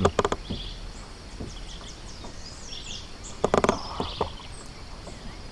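Birds chirping in the background, short high calls scattered through the first few seconds. A cluster of sharp clicks or knocks comes just after the start and a louder one about three and a half seconds in.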